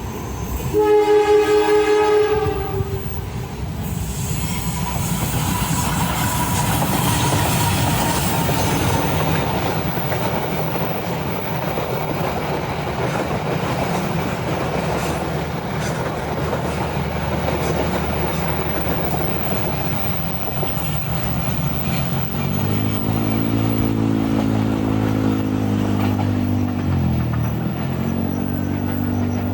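An Indonesian train's horn sounds one blast of about two seconds, a second in, followed by the steady rumble and clatter of the train passing. Near the end a low engine note comes in, dips in pitch and rises again.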